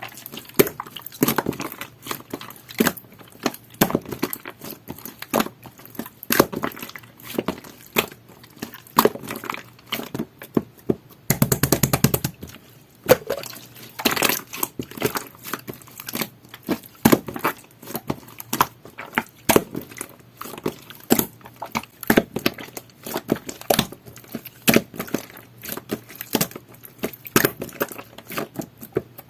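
Jelly-textured slime being squeezed and poked by hand, giving an irregular stream of sticky clicks, pops and crackles, with a denser squelch about twelve seconds in.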